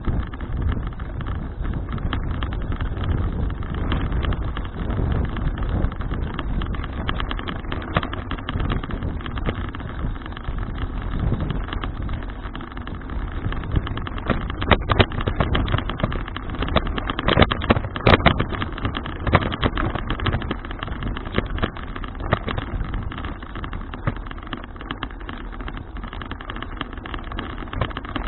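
Wind rushing over an action camera's microphone, along with road noise and rattling from a folding bicycle being ridden, with a run of sharper rattles and knocks about halfway through.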